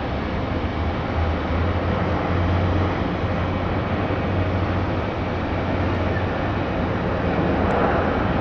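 Jet airliner engines running, a steady rushing noise with a low hum underneath, rising slightly in level toward the end.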